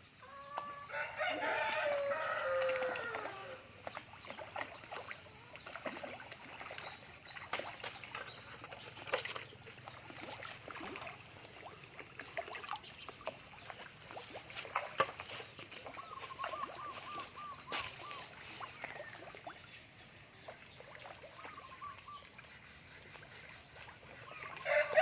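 Chickens: a rooster crows once about a second in, a long falling call and the loudest sound here, and hens cluck now and then, with a quick run of short clucks about two-thirds of the way through. A steady high-pitched hiss runs underneath, with scattered knocks.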